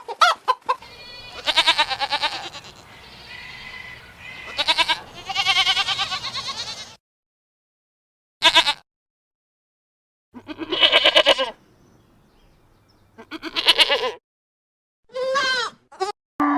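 Farm animal calls: about seven separate cries cut one after another, each ending abruptly, with silent gaps between them.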